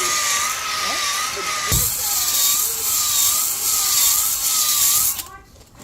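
Handheld power tool cleaning an engine part: a loud hiss with a motor whine whose speed wavers slightly under the sensitive trigger, a brief knock just under two seconds in, and the tool cutting off about five seconds in.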